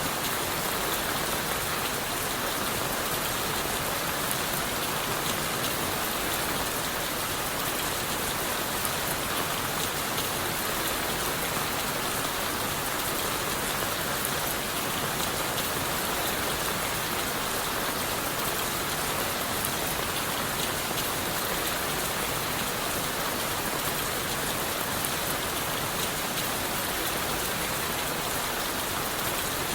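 Steady rain falling on leaves, wood and the forest floor, an even wash of sound with a dense patter of individual drops that stays unchanged throughout.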